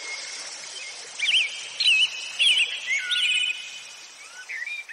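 Birds chirping over a steady outdoor hiss of ambience. Short, wavering chirps and trills repeat from about a second in.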